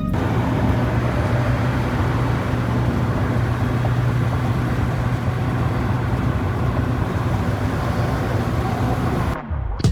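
A car running steadily, with a constant low engine hum under a wide noisy wash. It cuts off abruptly about nine seconds in.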